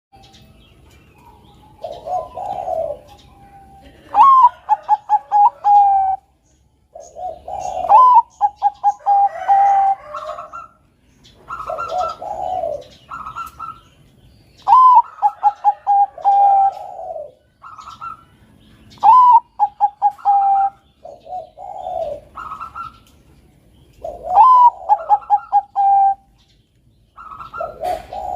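Perkutut bangkok (Thai-bred zebra dove) cooing its song over and over, a phrase about every three to four seconds: a low note, then a rising note followed by a quick run of short clipped coos.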